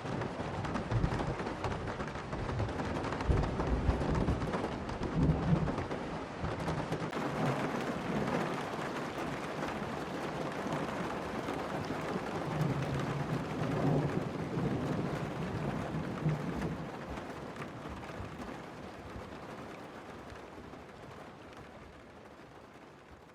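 Steady rain with thunder rumbling, once in the first few seconds and again in the middle, the whole sound fading out over the last several seconds.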